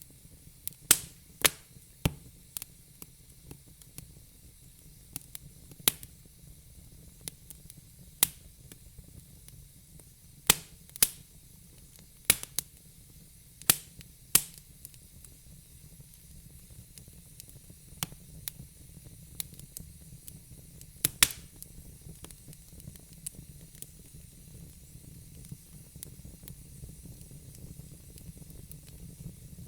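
Wood fire crackling: irregular sharp pops and snaps every second or two over a soft steady hiss and low rumble.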